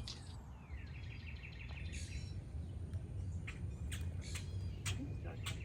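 Small birds chirping: a quick run of repeated high notes about a second in, then scattered short chirps, over a low steady hum.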